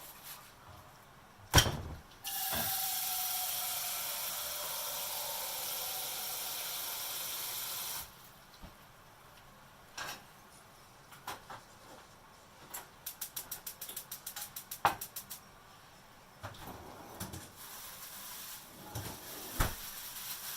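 Kitchen work sounds: a knock, then about six seconds of steady hissing that stops suddenly, and later a gas stove's igniter clicking rapidly, about ten clicks a second for a couple of seconds, with a few scattered knocks of utensils.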